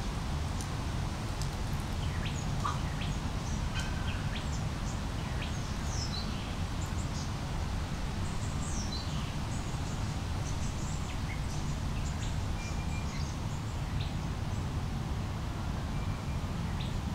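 Small birds chirping and calling here and there, with a couple of quick falling whistles about six and nine seconds in, over a steady low rumble.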